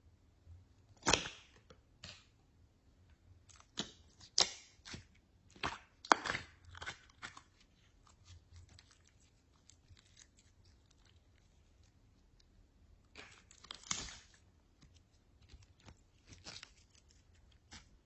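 Slime being worked by hand, giving irregular sticky crackles and pops in scattered clusters, with quiet stretches between.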